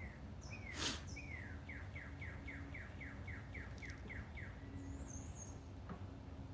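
A songbird singing: a quick trill of about a dozen down-slurred notes, a few per second, followed by a short high warble. A short burst of noise about a second in, over a faint steady hum.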